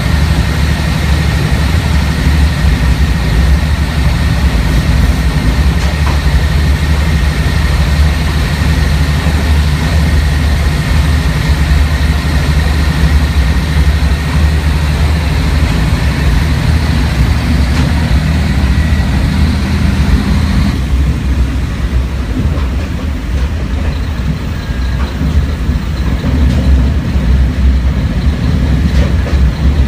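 Diesel engine of a Kashima Rinkai Railway 6000-series railcar, heard from inside the passenger cabin as a steady drone while the car runs. About 21 seconds in, the higher engine tones drop away and a lower, rougher running sound is left, as the power is eased off and the car rolls on.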